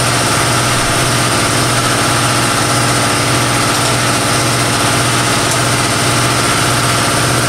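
Shop air compressor running steadily: a loud, even noise with a strong low hum.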